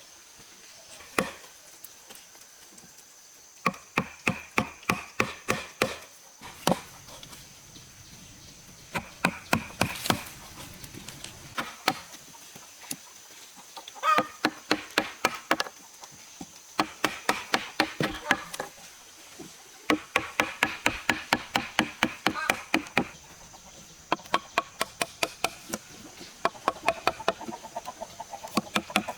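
Rapid runs of sharp striking blows, about five a second in bursts of two to three seconds with short pauses, each blow with a brief ringing tone. A steady high thin whine runs underneath.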